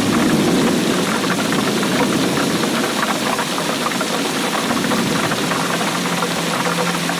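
Steady heavy rainfall, a dense, even patter of countless drops hitting a surface.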